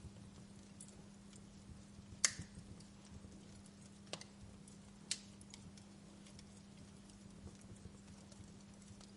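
Fireplace crackling: a low hiss with scattered sharp pops, the loudest about two seconds in and two more a couple of seconds later, over a faint steady hum.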